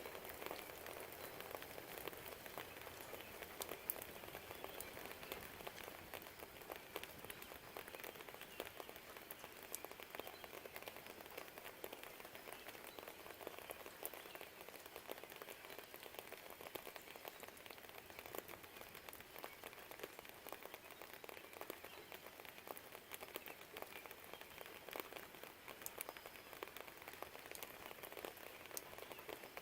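Steady rain, faint, a soft even hiss with many individual drops clicking sharply through it.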